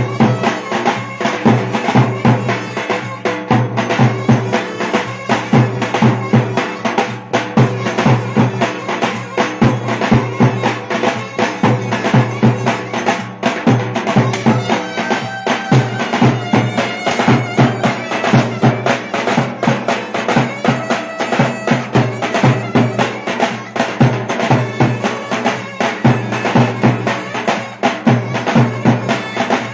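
Traditional Turkish Black Sea dance music (oyun havası): a wind-instrument melody over a fast, steady drum beat.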